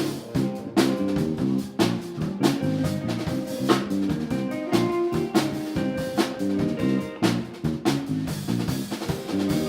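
Live band playing an instrumental jazz-funk groove: drum kit with regular snare and cymbal hits under guitar and bass.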